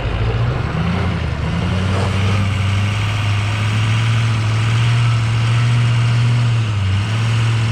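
Lifted Ford F350's diesel engine running at low revs, a steady low drone that wavers slightly in pitch in the first couple of seconds.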